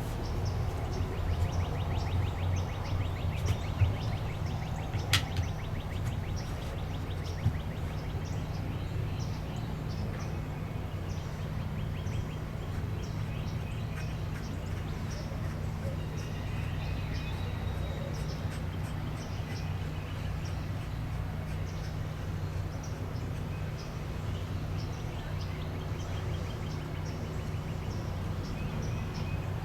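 Birds chirping and calling over a steady low rumble, with a single sharp click about five seconds in.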